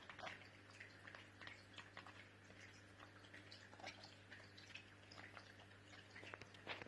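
Near silence: faint scattered small clicks and ticks over a low steady hum.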